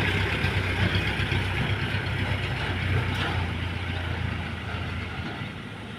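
Toyota Dyna dump truck's engine running steadily, fading away near the end.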